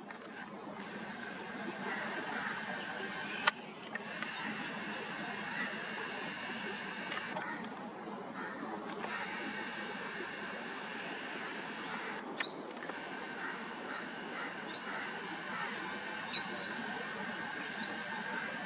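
Steady outdoor background hiss with a faint steady drone, broken by two sharp clicks; from about halfway on, many short, high, rising chirps of small birds.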